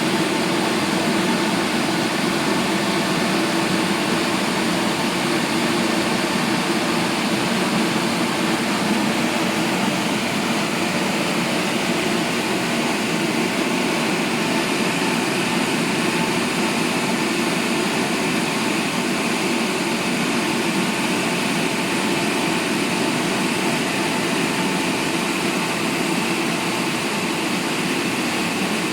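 Double-arm touchless car wash machine running: a steady, loud rushing noise with a low machine hum under it.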